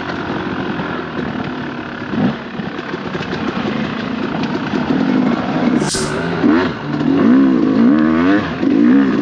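Dirt bike engine running at low speed, then revved up and down in repeated quick surges through the last few seconds as the bike loses momentum on a slick climb. A single sharp click about six seconds in.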